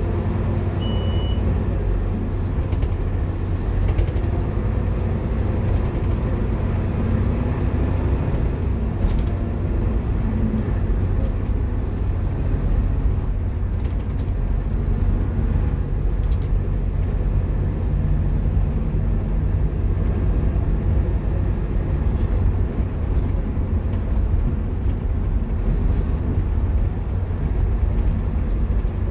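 Scania K230UB Omnilink single-deck bus under way: steady diesel engine and road noise heard from inside the bus, with the engine note shifting slightly a few times and a few faint clicks and rattles.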